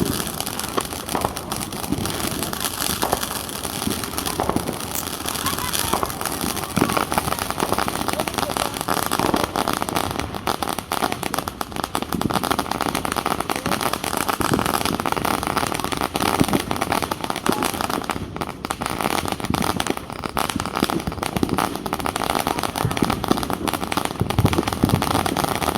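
Small fireworks crackling: a dense, continuous run of small pops and snaps.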